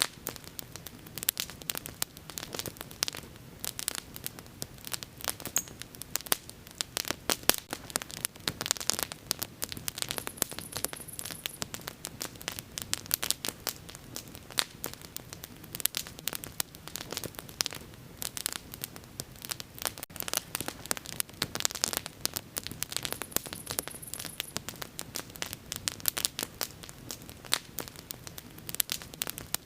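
Wood fire burning with dense, irregular crackling and popping over a low rumble of flame. Two brief high hisses come through, one about ten seconds in and one near twenty-three seconds.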